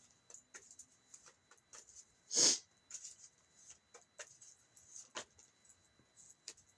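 Tarot cards being handled on a table during a reading: a string of small taps and light rustles, with one brief louder swish of a card being pulled or flipped about two and a half seconds in.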